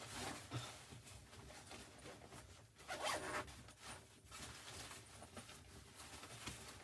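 A few short rasping strokes, the loudest about three seconds in.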